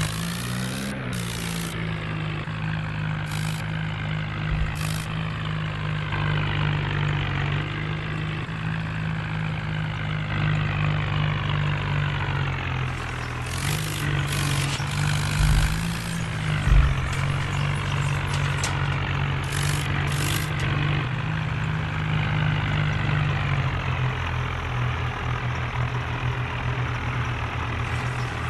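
Tractor's diesel engine running steadily, its pitch dipping and rising slightly now and then, with a few short bursts of hiss.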